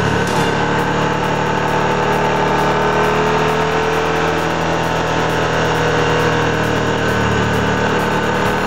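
2007 Moto Guzzi Griso 1100's transverse V-twin engine running steadily under way, its pitch rising slightly about halfway through.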